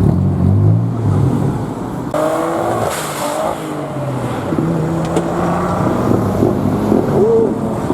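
Car engines running at low revs as cars manoeuvre into parking spaces, with a brief rise in engine note about two seconds in.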